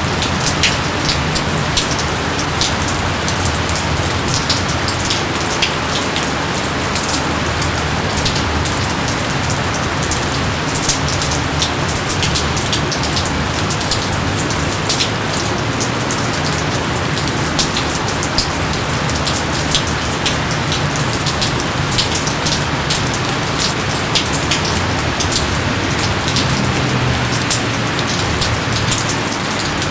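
Steady heavy rain falling, with many sharp individual drops ticking on near surfaces over a constant hiss.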